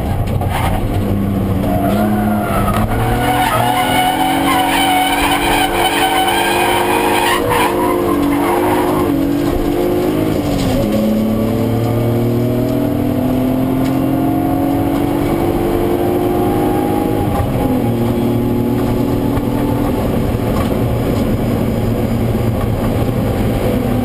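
BMW E36 323ti's straight-six engine, heard from inside the cabin, pulling hard with its pitch climbing for several seconds. The pitch drops sharply about ten seconds in, climbs again, and drops once more after about seventeen seconds before running fairly steadily.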